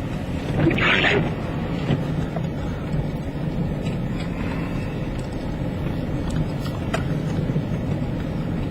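Steady low rumble of a vehicle, heard from inside, with a short, louder hiss about a second in.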